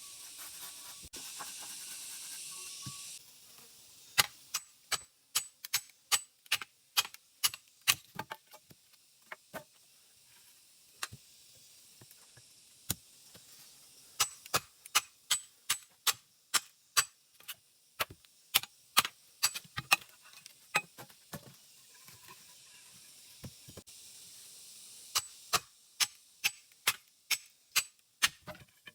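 A rapid series of sharp knocks, about two a second, in runs with short pauses, over a steady hiss.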